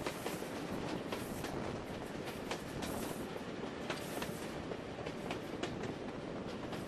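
Train running at speed behind Hymek D7076, a Class 35 diesel-hydraulic locomotive, heard through an open carriage window: a steady rush of wheels on track and passing air, with sharp, irregular clicks of the wheels crossing rail joints.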